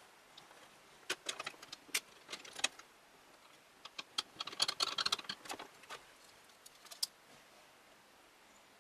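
Small hard parts clicking and clattering as they are handled, in two irregular runs of sharp clicks, then quiet.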